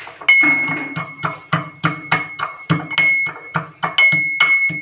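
Garlic and king chillies being worked into a paste with rapid, even strokes, about four a second, under a faint steady high ring.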